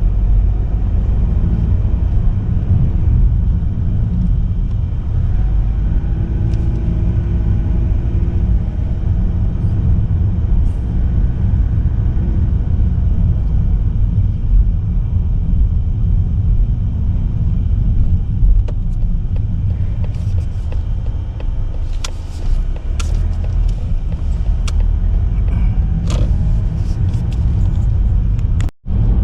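Steady low rumble of a car being driven, road and engine noise as heard inside it, with a few short clicks and knocks in the last third. The sound drops out for a moment just before the end.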